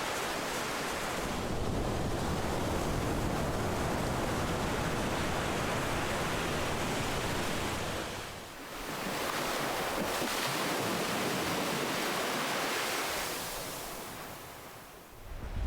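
Ocean surf: waves breaking and washing up in a continuous rushing noise that swells and ebbs, easing off briefly about eight seconds in and again near the end before the next wave surges in.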